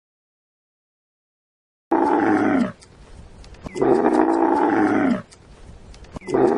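Loud calls from a large animal, starting about two seconds in: three calls of roughly a second each, with a pause of about a second between them.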